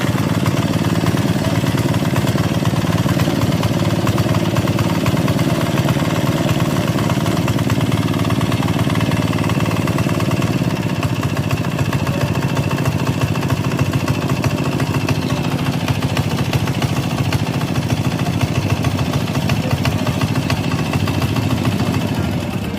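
Boat motor running steadily, its note easing slightly about halfway through.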